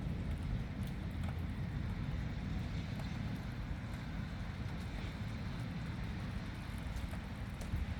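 Thunderstorm ambience: a steady low rumble with faint, scattered ticks above it.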